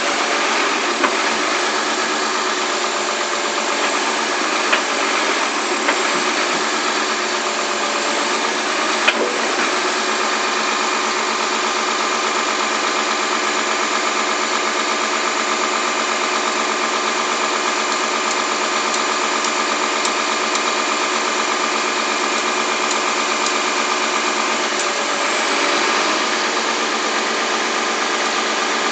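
Komatsu PC300-8 hydraulic excavator's diesel engine running steadily on a test run after a complete overhaul. A few sharp clicks come in the first ten seconds, and the engine note shifts briefly about 25 seconds in.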